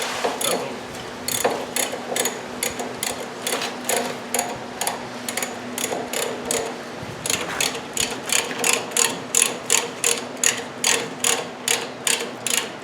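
Hand ratchet wrench clicking as the bolts are run up: short, uneven runs of clicks at first, then a steady rhythm of about two ratchet strokes a second, over a faint steady hum.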